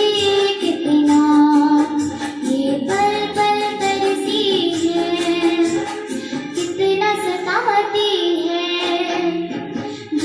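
A young girl singing a melody, with long held notes and quick ornamented turns in pitch.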